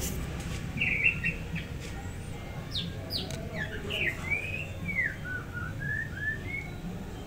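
A small bird chirping: a few short notes about a second in, then a run of quick rising-and-falling notes from about three seconds in until near the end, over a low steady rumble.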